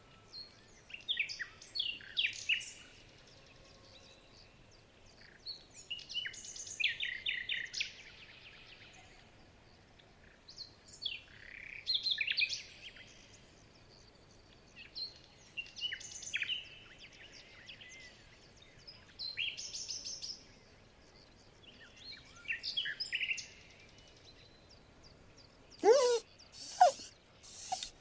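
Bird chirps in short bursts every few seconds. About two seconds before the end, a dog's loud whine rises in pitch.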